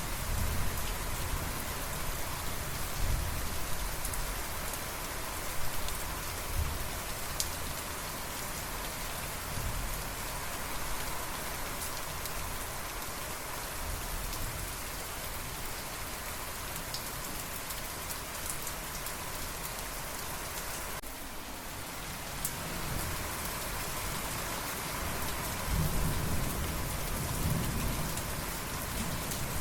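Steady heavy rain hissing on surfaces, with low thunder rumbling now and then and a longer, louder roll of thunder building near the end.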